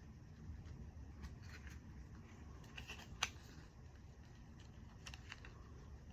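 Faint handling sounds: light rustling and a few small clicks, with one sharper click about three seconds in, as the tags are taken off crocheted items, over a low steady room hum.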